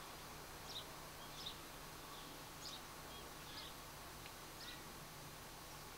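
Birds chirping, with short, high, separate chirps about once a second over a faint steady low hum and hiss of open countryside.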